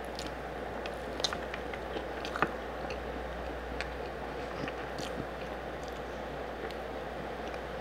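Close-up biting and chewing of a sauced pork rib, with scattered wet mouth clicks and two sharper bites a little over one and two seconds in. A steady hiss of heavy rain runs underneath.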